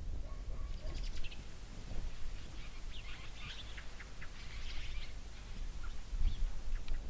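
Small birds chirping, short quick calls bunched between about one and five seconds in, over a steady low rumble.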